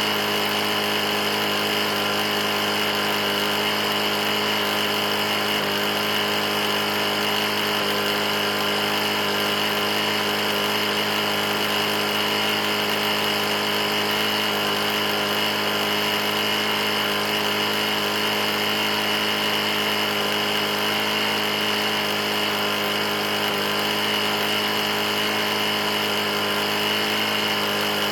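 Briggs & Stratton E450 single-cylinder lawn mower engine running steadily at a constant speed with a nasty knock, from an engine that has been run short of oil.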